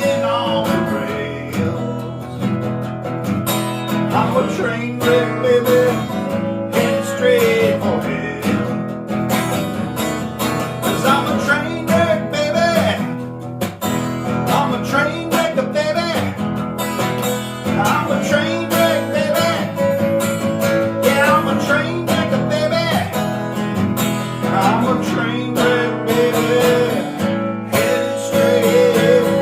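Strummed acoustic guitar playing an instrumental break between verses of a song, with a melody line weaving over the chords.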